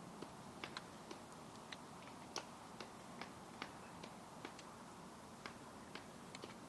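Sparse, irregular sharp clicks, a few a second, over a faint steady hiss.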